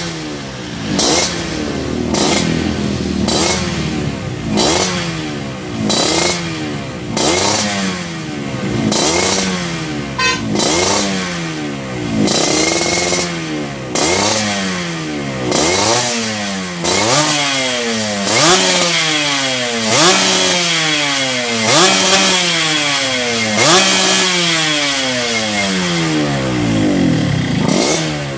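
Yamaha RX-King two-stroke single-cylinder engine revved over and over through an aftermarket Y3Y underslung exhaust while being tuned. Each throttle blip rises sharply in pitch and falls back, about one every one and a half seconds.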